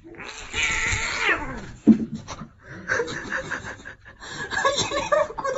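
A person laughing off camera in several bursts, the last one a quick pulsing run of laughter.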